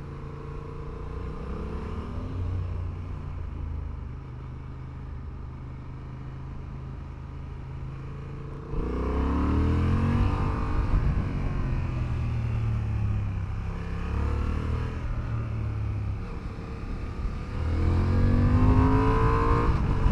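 Honda Hornet 1000 motorcycle engine heard from the rider's position, cruising steadily at first. About nine seconds in it is opened up hard for an overtake, and the revs climb and drop back through gear changes before rising again near the end.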